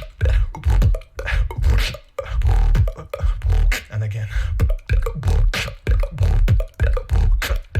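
Solo human beatboxing: a fast, dense beat of deep bass kicks and sustained bass tones cut by sharp snare- and hi-hat-like mouth hits.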